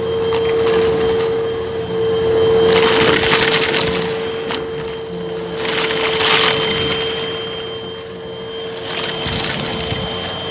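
Hoover vacuum cleaner running with a steady motor whine while sucking up dry crunchy debris that crackles and rattles through the nozzle, in two denser bursts about three and six seconds in.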